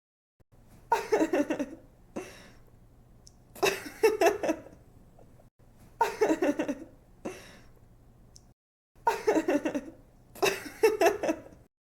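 A young woman laughing in five bursts of quick pulsing laughs, with short breaths drawn between some of them.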